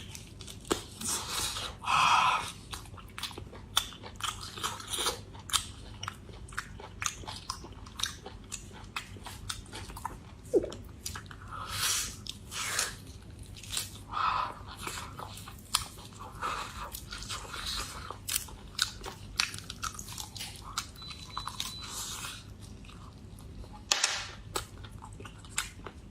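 Close-miked chewing and biting of air-fried beef ribs, a steady run of crunchy, crackly bites and mouth clicks with louder crunches now and then. The ribs are roasted a little hard and crisp.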